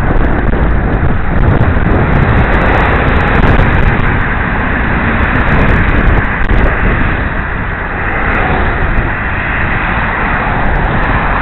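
Wind rushing over a helmet-mounted camera's microphone while cycling: a loud, steady roar of noise that eases slightly after the middle.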